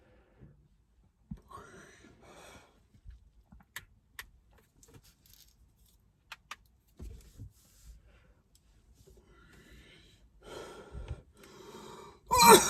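A person smoking from a hand pipe: faint breathy draws and exhales with a few small sharp clicks, then loud coughing breaks out near the end.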